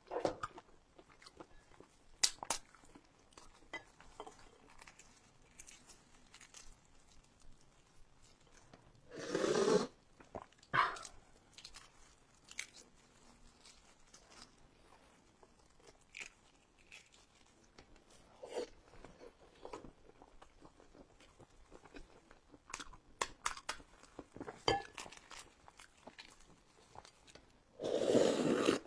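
Close-up eating sounds: scattered crunching and chewing clicks, with two louder bursts of about a second each, one a little before halfway and one near the end.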